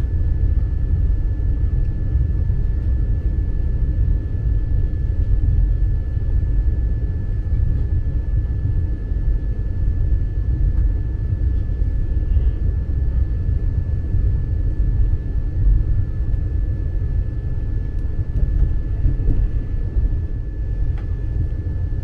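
Vande Bharat Express electric trainset running: a steady low rumble with a faint, steady high whine above it.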